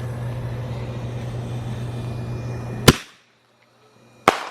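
Two sharp, loud firework bangs about a second and a half apart, the first near three seconds in and the second near the end. Before the first bang a steady low hum runs underneath.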